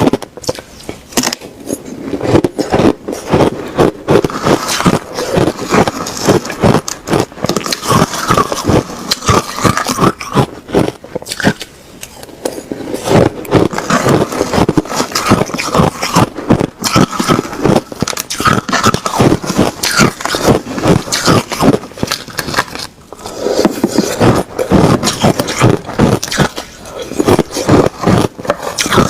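A person crunching and chewing mouthfuls of hard ice in rapid, irregular crunches, pausing briefly twice.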